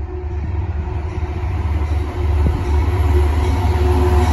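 Amtrak GE P32AC-DM locomotive approaching a platform: a steady low rumble with a faint tone above it, growing louder as it comes nearer.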